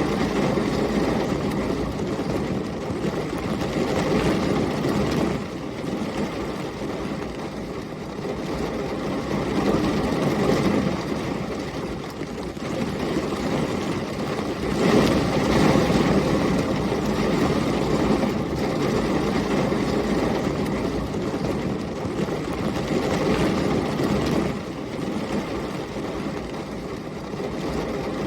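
Heavy rain with storm wind: a steady rushing hiss that swells and eases every few seconds, loudest about halfway through.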